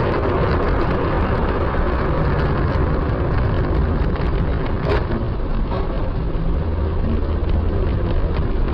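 Steady rumble of a vehicle on the move, engine and road noise as picked up by a dashcam inside the cab, with a single sharp click about five seconds in.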